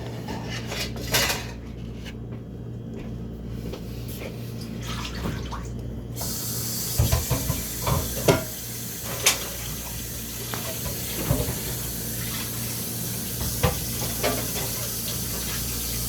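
Scattered clinks and knocks of a utensil against a plate while cake is eaten, over a steady low hum. A steady hiss comes in suddenly about six seconds in.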